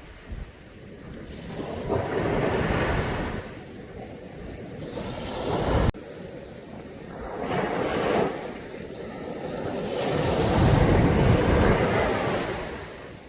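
Caribbean sea waves breaking and washing up the beach in several rising and falling surges. About six seconds in the sound drops off suddenly, then swells again with the next wave.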